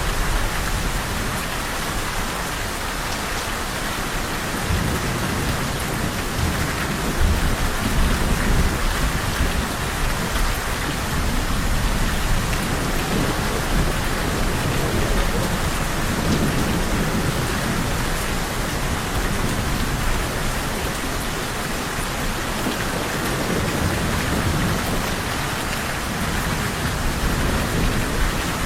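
Steady rain falling, with thunder rumbling low beneath it. The thunder swells in about five seconds in, is loudest a few seconds later, and rolls again midway.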